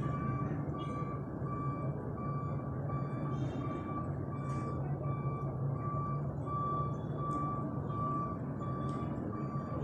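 An electronic beeper sounding one short tone about twice a second, over a steady low hum and background noise.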